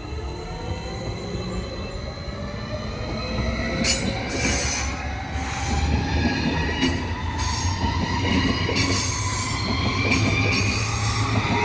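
Electric train running through the station, its motor whine climbing steadily in pitch as it gathers speed, over a low rumble from the wheels. From about four seconds in, the wheels give repeated high-pitched squeals.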